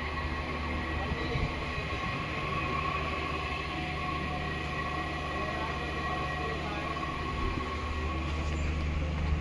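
ICF passenger coaches of an Indian Railways express running on the track: a steady rumble with a thin, steady high-pitched tone over it.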